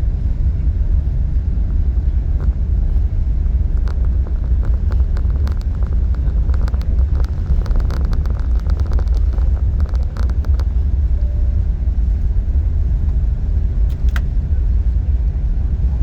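Airliner cabin noise: a steady low rumble, with a run of light clicks and rattles in the middle and a brief short tone near the end.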